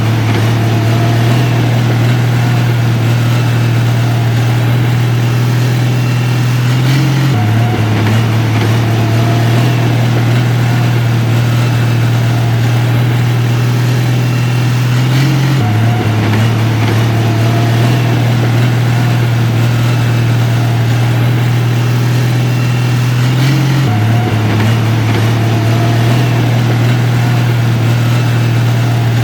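Diesel engine of heavy earthmoving machinery running steadily with a deep hum, its pitch stepping briefly about every eight seconds.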